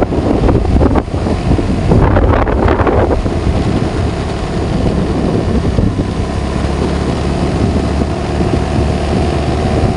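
A vehicle engine running while driving, with wind buffeting the microphone. There is a louder noisy stretch about two seconds in.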